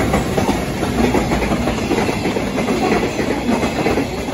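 A train running past on the station tracks, its wheels clattering over the rail joints in a loud, continuous rattle.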